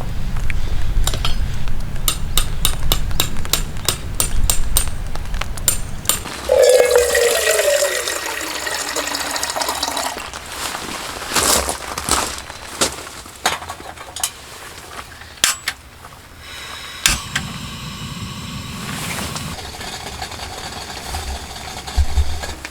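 Light clinks and knocks of camp dishes and utensils being handled, a run of quick ticks in the first few seconds, then scattered single knocks.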